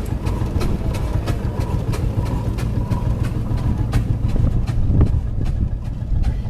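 Slow-running vintage engine ticking over, with steady, evenly spaced beats about three a second over a low rumble.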